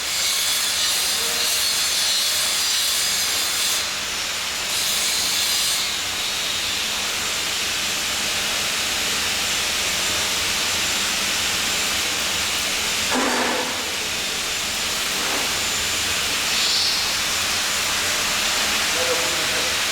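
Steady, loud hissing from welding or cutting equipment at work, with a short break about four seconds in.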